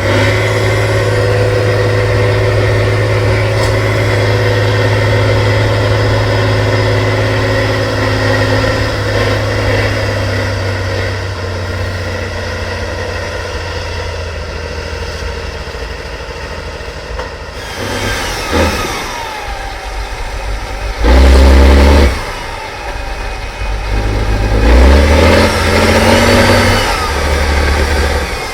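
Trial truck's engine running steadily, then revved hard in several bursts over the second half, the loudest about three-quarters of the way through.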